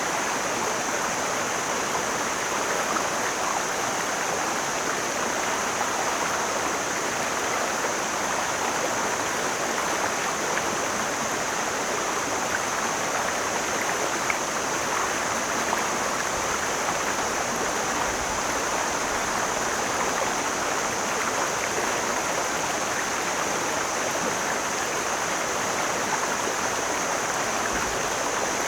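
Mountain stream flowing: a steady, even rushing of water, with a steady high hiss above it.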